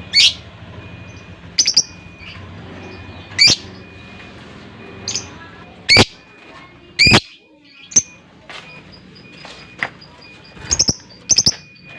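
Lovebirds giving loud, sharp, shrill calls. There are about ten separate short shrieks at irregular intervals, some in quick pairs.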